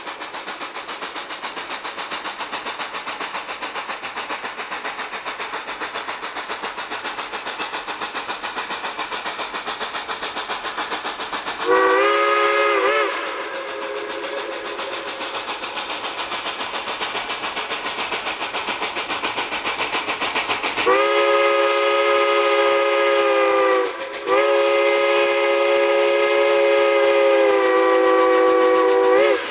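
Narrow-gauge steam locomotive working with rapid, even exhaust beats, then its steam whistle sounds a chord of several notes: a short blast about twelve seconds in, and two long blasts near the end, with a brief break between them.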